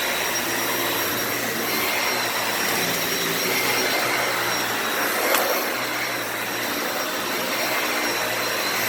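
Dyson Ball Animal 2 upright vacuum cleaner running steadily, a constant motor whine over airflow hiss. A brief click about five seconds in.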